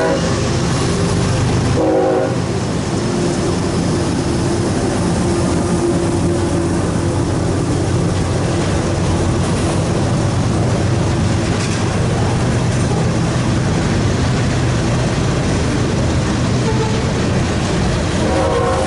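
CSX train passing with its diesel locomotives running in a steady low drone over the wheel and car noise. The locomotive horn sounds briefly about two seconds in and again near the end.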